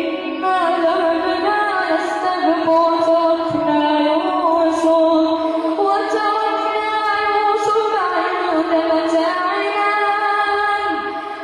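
A man's voice reciting the Quran in a slow, drawn-out melodic chant, holding and ornamenting long notes with gently turning pitch.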